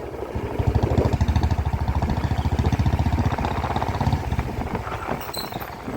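Motorcycle engine running at a steady even beat while riding, easing off a little about four seconds in.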